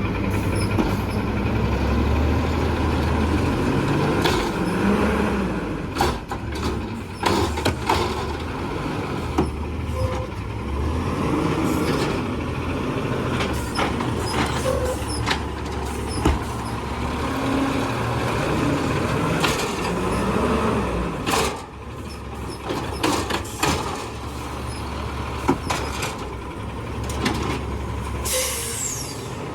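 Garbage truck engine running, with scattered knocks and bangs from the collection work and a hiss of air brakes.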